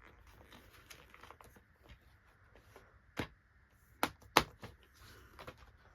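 A plastic DVD case and its paper inserts being handled: faint rustling, with three sharp plastic clicks in the second half.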